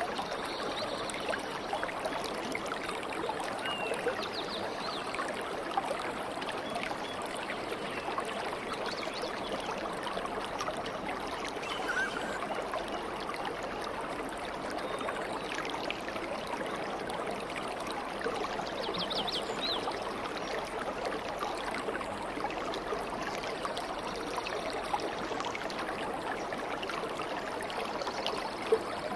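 Stream water burbling and trickling steadily, with a few faint, brief high chirps from birds now and then.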